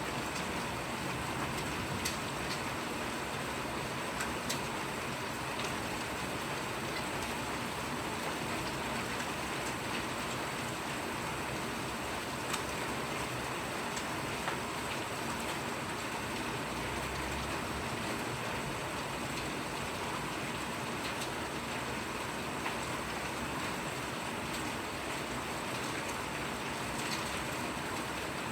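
Steady rain falling in a continuous hiss, with a sharper drip or drop tick every few seconds.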